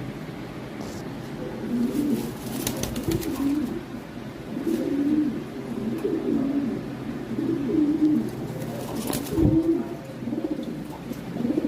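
Lahori Sherazi pigeons cooing, a series of low, warbling coos repeated every second or two from about two seconds in. A sharp thump comes about nine seconds in.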